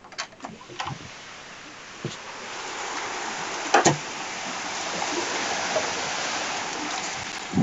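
Thunderstorm rain swelling into a heavy, steady downpour about two seconds in, with scattered close drops ticking and one sharp knock a little before the middle.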